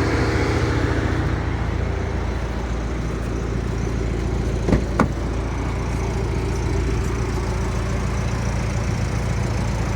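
Car engine idling steadily, with two sharp clicks about a third of a second apart near the middle.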